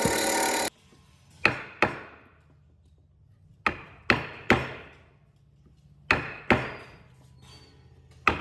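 Sharp blows struck on wood, in quick groups of two or three a few tenths of a second apart, each ringing briefly. Before them, a loud steady noise cuts off suddenly under a second in.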